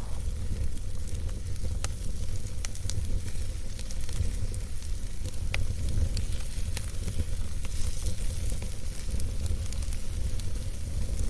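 Campfire burning: a steady low rumble and hiss, with scattered sharp crackles and pops from the burning wood.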